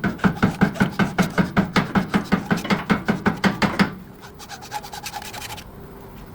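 Rapid, even rubbing or scraping strokes, about five a second, that stop about four seconds in; a few faint clicks follow.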